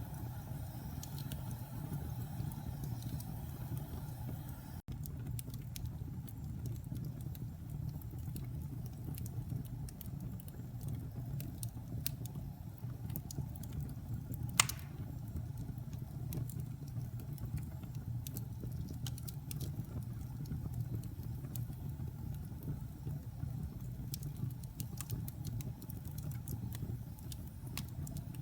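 Wood fire burning in a fireplace: a steady low rumble with scattered small crackles and one sharp pop about halfway through.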